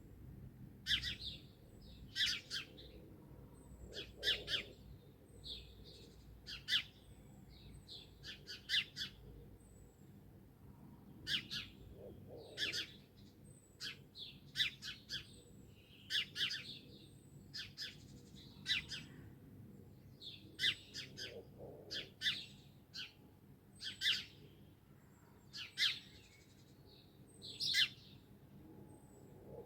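Wild birds singing, a steady run of short chirping phrases one after another. A lower, softer call joins in roughly every eight or nine seconds.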